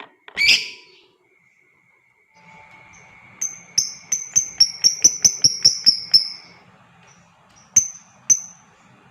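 Lovebird calling: one loud harsh call, then a fast chatter of about fifteen sharp high chirps, roughly five a second, falling slightly in pitch, and two more chirps near the end. The fast chatter is the ngekek that lovebird keepers prize.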